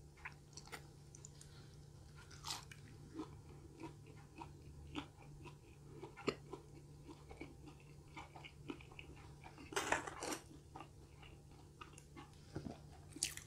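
Close-miked chewing of a battered, sauce-dipped garlic cheese onion ring: many short crunches and wet mouth clicks. A louder burst comes about two-thirds of the way through.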